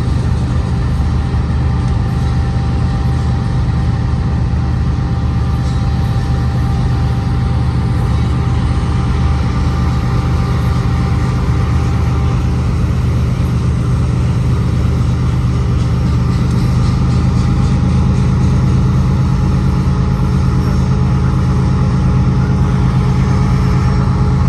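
Loaded auto-rack freight train rolling past: a steady low rumble with a constant hum and faint high tone, growing a little louder in the last third.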